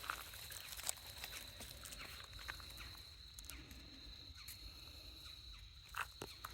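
Faint footsteps and rustling, with scattered light clicks as small puppies move about around a person. A steady faint high tone runs underneath.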